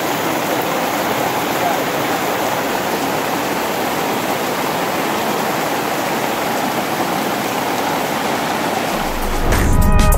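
Heavy rain pouring steadily, a dense even hiss. About nine seconds in, electronic music with a heavy bass starts.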